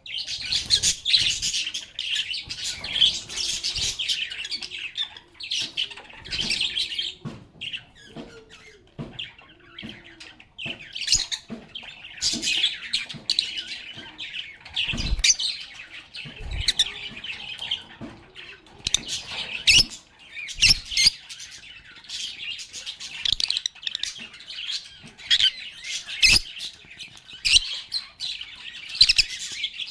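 Pet lovebirds chirping and chattering almost without pause in high, shrill calls. Scattered short low knocks come through, mostly in the second half.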